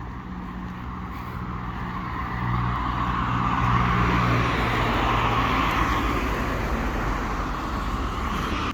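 Road vehicle passing close by on the street, its engine hum and tyre noise swelling over the first few seconds and staying loud before cutting off suddenly at the end.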